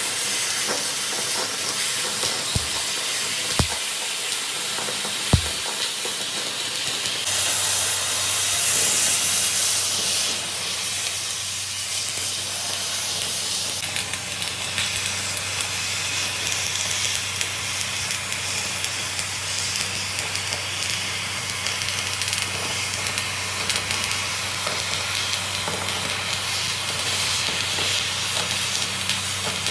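Metalworking machinery running with a steady hiss. There are three low thuds in the first six seconds, and a steady low motor hum comes in about seven seconds in.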